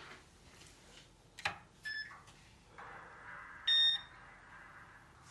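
A model railroad's electronics being powered up: a click, a faint short beep, then a steady hum comes on, and a louder single electronic beep sounds about three and a half seconds in.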